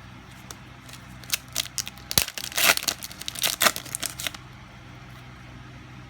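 A trading-card booster pack wrapper being torn open and crinkled: a quick run of rips and crackles starting about a second in and lasting about three seconds.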